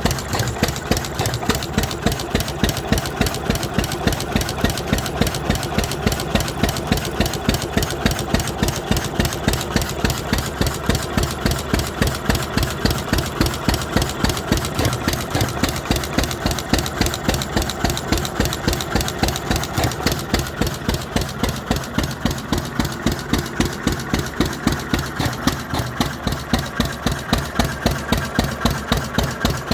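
Vintage 3 hp Anderson stationary engine running steadily, with an even, regular beat of firing strokes.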